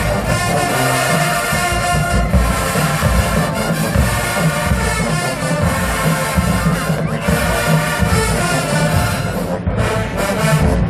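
HBCU marching band playing loudly: a full brass section with trombones and trumpets sustaining chords in phrases, over heavy low drums and brass.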